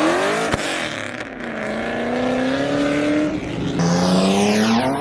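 Car engine under hard acceleration, its pitch climbing through the revs and dropping abruptly at upshifts about one and a half seconds in and again near four seconds.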